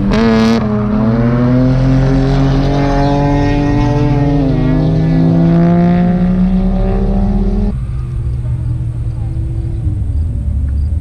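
Drift cars' engines running hard on track, their pitch rising and falling as they rev. About three quarters of the way through, the engine sound cuts off abruptly, leaving a lower rumble.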